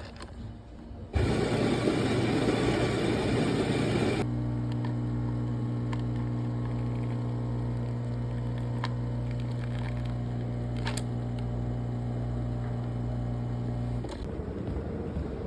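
A few seconds of loud rushing noise, then a steady low mechanical hum with a fixed pitch that stops near the end.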